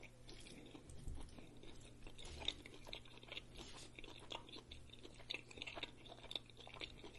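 Faint close-up chewing of a mouthful of burrito bowl of brisket, rice and lettuce: many small irregular wet mouth clicks and crunches, with a plastic fork scooping in the bowl.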